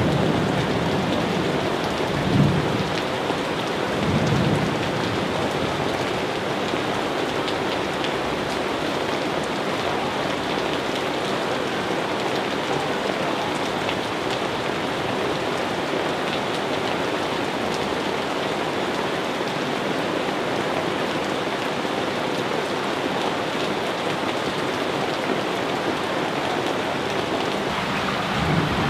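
Steady heavy rain falling on surfaces, with brief low rumbles of thunder about two and four seconds in and again near the end.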